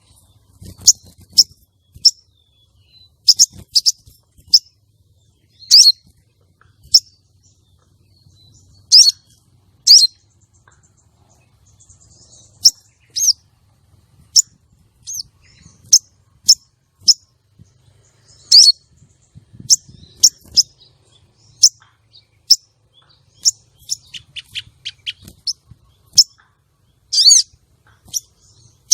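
Female sogon bird calling: short, sharp, high-pitched chirps, about one a second at uneven spacing, with a quicker run of fainter notes a little before the end.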